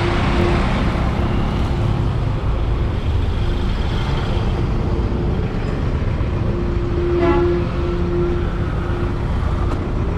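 A motorcycle riding through traffic, with steady road and wind noise. A horn sounds briefly at the start and again for about two seconds around seven seconds in.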